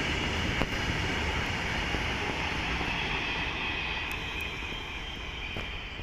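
Freight train of railway tank wagons rolling past on the track: a steady rumble and rush of wheels on rails that slowly fades over the last few seconds as the end of the train goes by.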